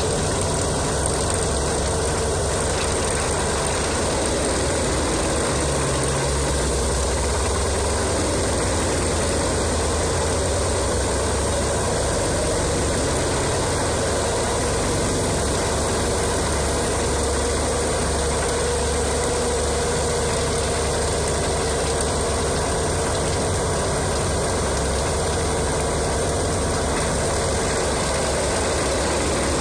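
Large wood chipper's engine running steadily with a deep, even drone and no sudden knocks or crunches.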